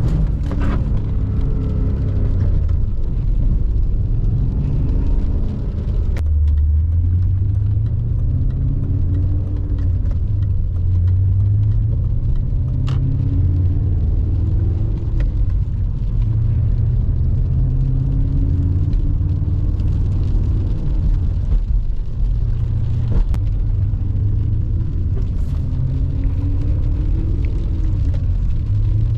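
BMW E39 M5's 4.9-litre S62 V8, heard from inside the car while it is driven, with a deep rumble. The engine note rises and falls again and again as the car speeds up and eases off. A few sharp clicks come through along the way.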